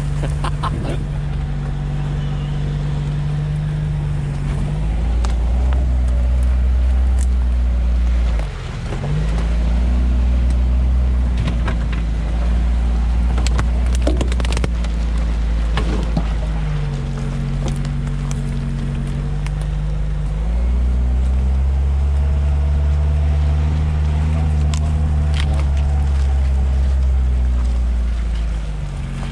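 Lada Niva 4x4's engine pulling at low speed over a rough forest track, its pitch stepping up and down several times as the throttle changes, with a brief drop about eight seconds in. Scattered clicks and knocks sound over the steady low rumble.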